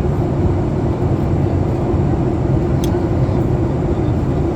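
Steady cabin noise inside a Boeing 737 MAX 8 in descent: a low rumble of airflow and its CFM LEAP-1B engines, with a steady hum, and a brief tick about three seconds in.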